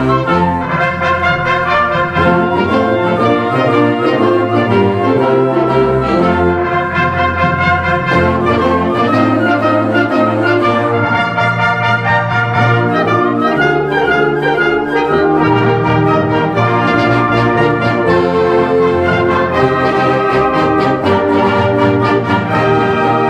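Concert band playing live, brass to the fore with trumpets and trombones holding sustained notes over a steady low bass line.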